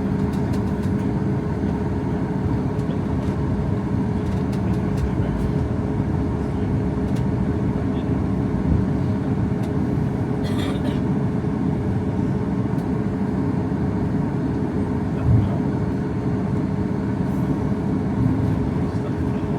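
Steady drone of a Boeing 737 MAX 8's CFM LEAP-1B engines and air system heard inside the passenger cabin, holding an even pitch, with a short thump about fifteen seconds in and a brief hiss near the middle.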